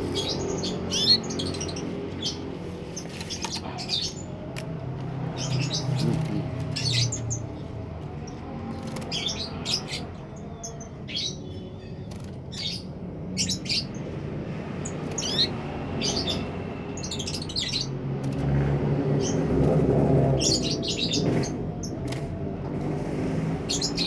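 Canary chirping in short, scattered calls, over a steady low background rumble.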